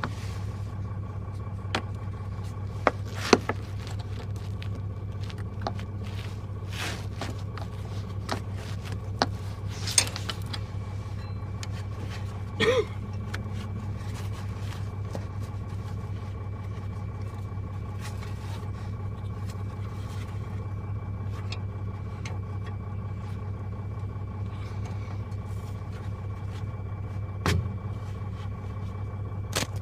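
An engine idling steadily with a low, even hum, with scattered clicks and knocks on top, the loudest a short knock about halfway through.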